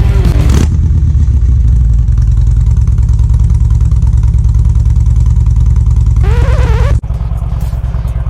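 Harley-Davidson Electra Glide's V-twin engine running at a steady idle, a deep even rumble. About seven seconds in, the sound cuts abruptly to a quieter take of the same engine running.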